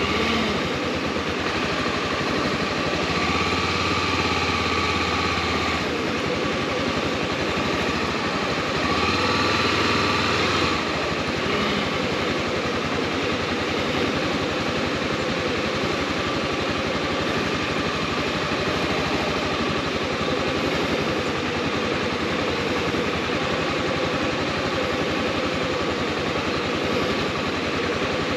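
Honda XRE300's single-cylinder engine running steadily, a little louder about nine to eleven seconds in.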